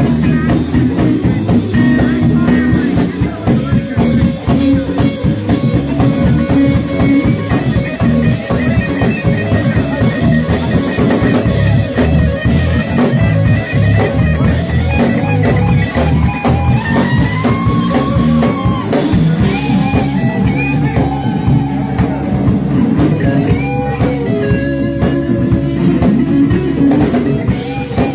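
Live rock band playing an instrumental passage: electric guitar lead over bass and drum kit, with bending sustained guitar notes.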